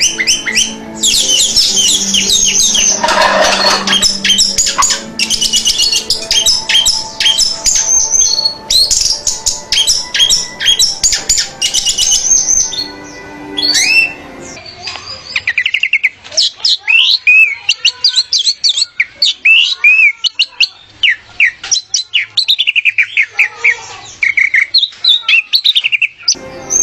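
Orange-headed thrush (anis merah) singing a fast, varied song of rapid high whistled notes and sweeping phrases. About halfway through, the recording changes and the song goes on over a much quieter background.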